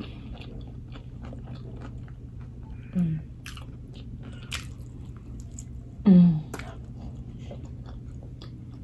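Close-miked biting and chewing of a Popeyes fried chicken sandwich: wet chewing with many small crisp crackles from the breading. Two brief vocal sounds break in, about three and six seconds in, the second the loudest, over a steady low hum.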